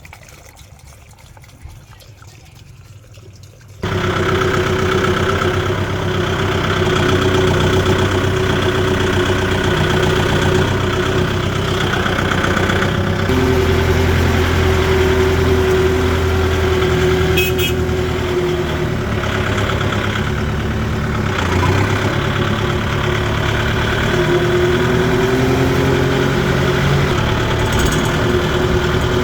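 A Kubota tractor's diesel engine runs loudly and steadily, cutting in abruptly after a few seconds of quiet, its pitch shifting slightly as it works.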